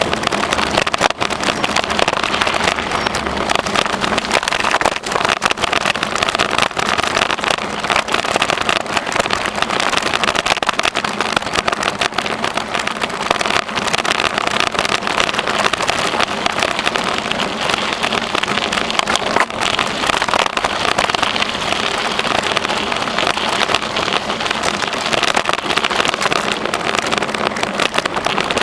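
Steady rushing noise of riding a bicycle: wind on the microphone and tyres rolling over the trail, with frequent small knocks and rattles.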